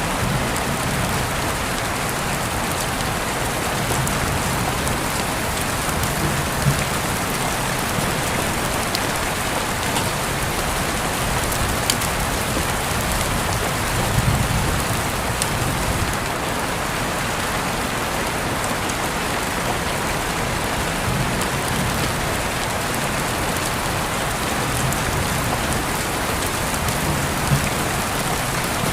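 Steady rain falling on a surface, a constant hiss with now and then a sharper single drop.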